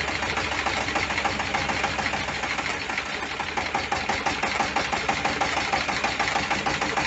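Idling engine with a ringing, rapid rattle (побрякивание) running steadily with it: a foreign noise on one side of the engine that is heard only while it runs and not when it is turned over by hand.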